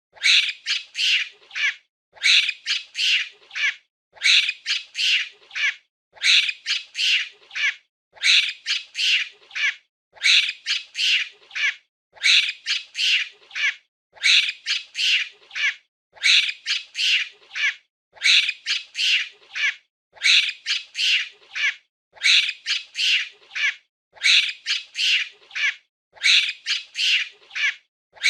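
Monkey giving short, high-pitched shrieking calls in clusters of three or four, the same pattern repeating evenly about every two seconds.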